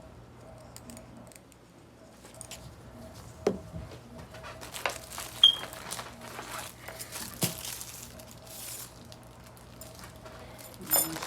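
Handling noise from cleaning pistol parts: scattered clicks and taps of small metal and plastic parts and tools being picked up and set down, with short bouts of rustling and scrubbing. The loudest is a sharp click about five and a half seconds in.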